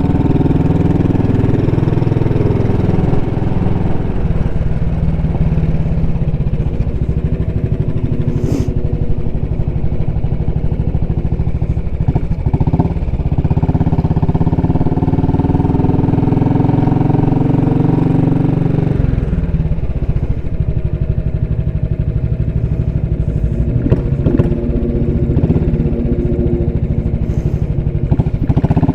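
Royal Enfield Classic 500's single-cylinder engine and exhaust running under way on the road. The engine note rises and falls several times with throttle and speed, with a clear shift about two-thirds of the way in.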